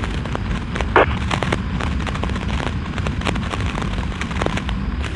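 Motorcycle riding along: a steady low engine rumble with irregular crackling pops and clicks, and a short blip about a second in.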